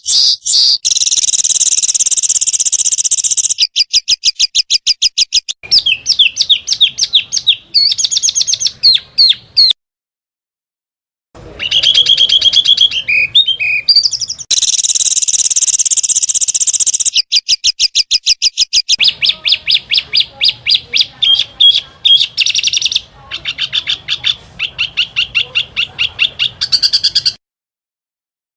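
Small songbirds singing loud, fast 'tembakan' song: rapid-fire runs of sharp, high repeated notes and buzzy trills in changing bursts, the kind of song played to train contest birds. The song cuts off abruptly for a second or so near the middle and again near the end.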